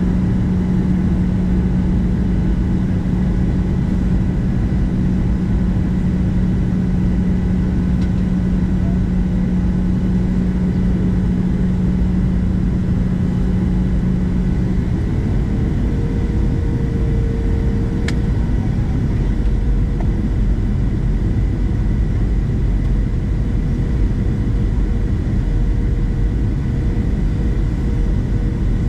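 Steady cabin rumble inside a Boeing 737-700 from its CFM56 jet engines and the air around the hull. A strong low hum fades out about halfway through and a higher steady tone takes over.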